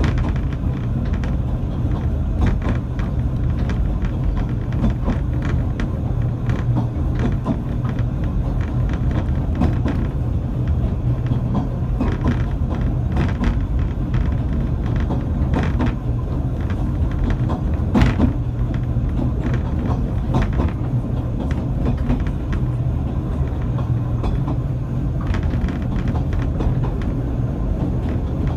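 Narrow-gauge steam railway carriage running along the track: a steady rumble from the wheels and running gear, with frequent short clicks and rattles and one sharper knock about 18 seconds in.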